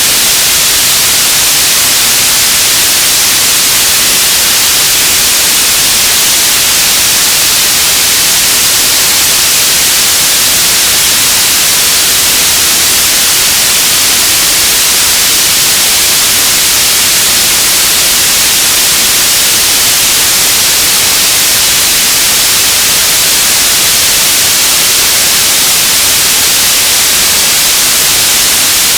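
Radio static: a loud, steady hiss with no breaks, strongest in the high range.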